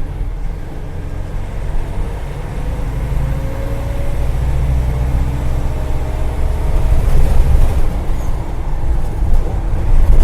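Agrale-chassis micro-bus running under way, heard from inside the cabin: a steady low engine rumble with a faint whine that rises in pitch from about two to five seconds in, growing louder near the end.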